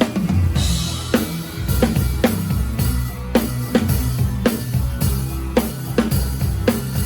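Live drum kit playing a steady beat, with sharp snare strokes about twice a second over kick drum and the band's low bass line.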